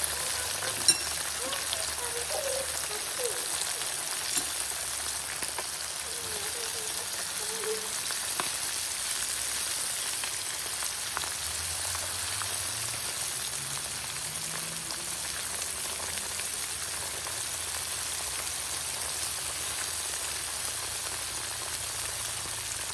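Floured carp pieces frying in hot oil in a pan: a steady, dense sizzle, with one sharp click about a second in.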